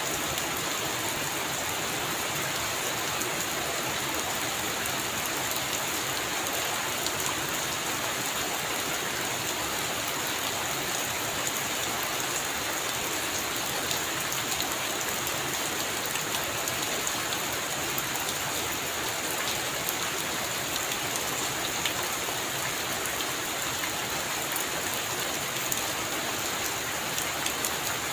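Heavy rain falling steadily, a dense even hiss with scattered louder drop ticks.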